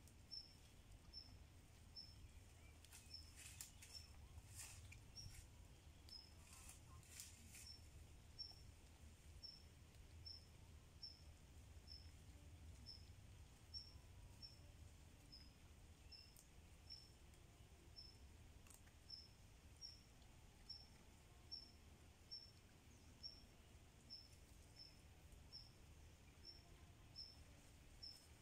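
A small bird repeats one short, high chirp about one and a half times a second. Brief rustling and crackling in dry leaf litter comes a few seconds in, from a wild boar rooting for food.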